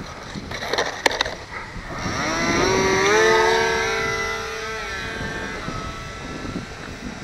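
Electric motor and propeller of a HobbyZone Delta Ray RC plane whining, the pitch rising over about a second as it comes up to speed, then holding steady before fading away. Wind noise buffets the microphone throughout, with a couple of sharp clicks about a second in.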